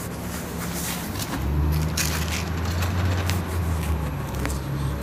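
Low rumble of a train at the station, swelling about a second and a half in and easing near the end, with scraping and clicking from the hand-held camera being moved.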